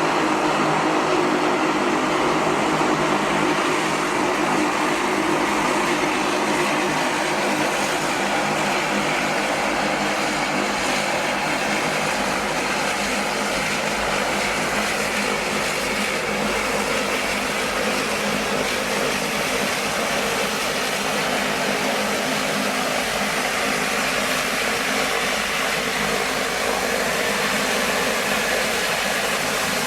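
Aircraft engines running steadily at close range, a loud even rush with a low hum of steady tones under it.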